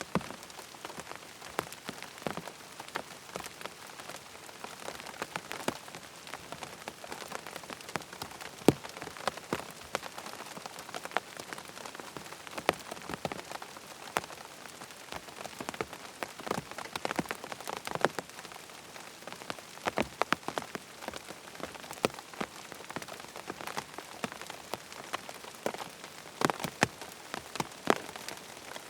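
Rain falling on a tent: a steady patter with irregular louder drops striking the fabric.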